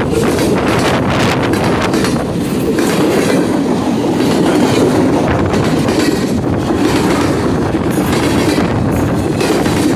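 Freight cars rolling past close by: steel wheels rumbling on the rails and clacking over the rail joints in a continuous stream.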